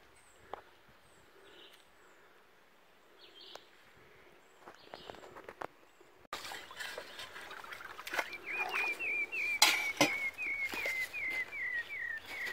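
Wild forest birds: faint high chirps at first, then from about two-thirds in one bird repeats a short note about two times a second, a dozen times, each a little lower in pitch. Scattered clicks and a single loud knock sound in the second half.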